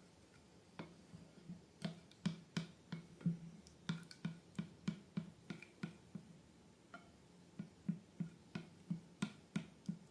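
Slime being worked by hand, giving an irregular run of sharp clicks and pops, roughly two or three a second, starting about a second in.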